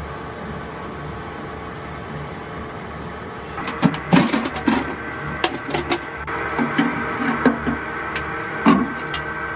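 Steady hum of submarine machinery. About three and a half seconds in, a run of metal clanks and knocks starts from torpedo-handling gear being worked during a reload, loudest just after the start of the run and again near the end.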